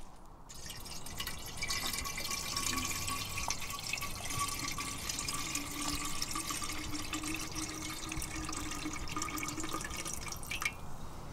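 Water pouring steadily into a container for several seconds, then stopping abruptly near the end.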